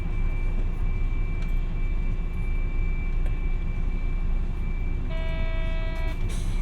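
Interior sound of a Hiroden 700-series tram: a steady low rumble with a faint, steady high whine. About five seconds in, a one-second electronic tone sounds, followed by a sharp click.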